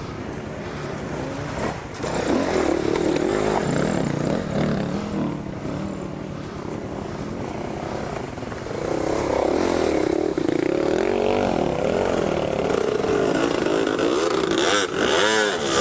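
Dual-sport motorcycle engine revving in bursts, its pitch rising and falling. It grows louder about nine seconds in, with a sharp rev near the end.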